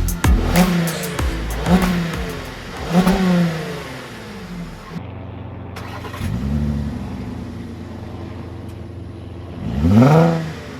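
VW Atlas 3.6-litre VR6 engine through a resonator-delete exhaust, blipped to several quick revs in a row. It settles back to idle between them, with a sharper, louder rev near the end.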